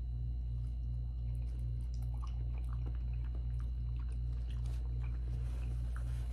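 Close-miked chewing of a mouthful of raw fish sashimi, soft wet clicks and squishes scattered through, over a steady low hum.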